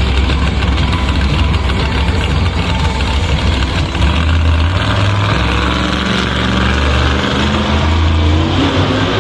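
Monster truck engine running loudly at a rough idle, its low rumble swelling and easing a few times.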